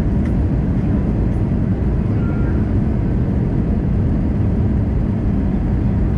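Airbus A320 cabin noise: a steady, loud low rumble and rush of air from the engines and the airflow over the fuselage.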